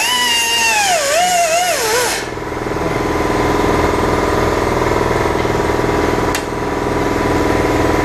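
Grinder working steel, its whine dipping and recovering as it is pressed into the metal, with a bright gritty hiss; the grinding stops suddenly about two seconds in. A steady motor hum continues after it, with a single click near six seconds.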